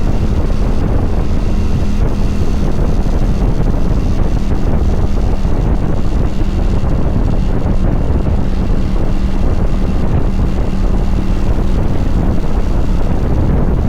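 Kawasaki Vulcan 900 V-twin motorcycle engine running at a steady speed, under heavy wind rushing over the microphone.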